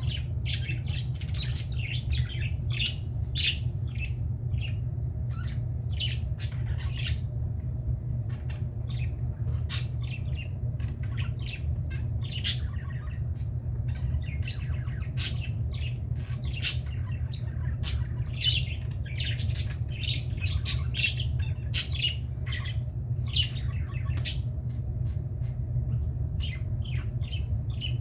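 Several budgerigars chattering and squawking with many short, sharp calls, over a steady low hum.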